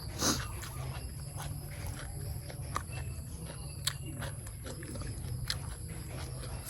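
A person chewing a mouthful of raw beef and offal salad, with scattered short clicks and a brief louder noise about a second in.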